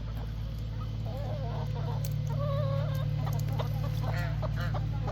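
Domestic fowl calling: a run of wavering, honking calls that comes in about a second in and grows busier toward the end, over a steady low hum.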